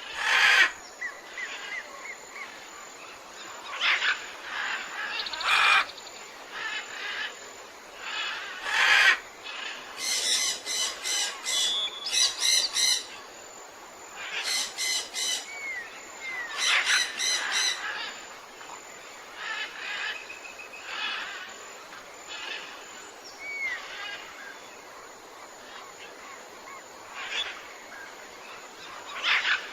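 Several forest birds calling with a mix of chirps, short rising whistles and squawks. Bursts of rapid repeated notes come about a third of the way in and again just past the middle.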